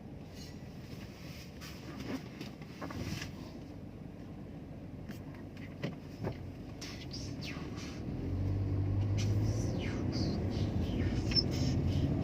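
A motor vehicle's engine running, louder from about eight seconds in, over faint scattered clicks.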